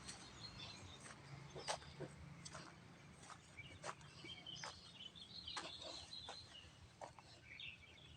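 Faint outdoor ambience: scattered sharp clicks about once a second, with small birds chirping in the middle.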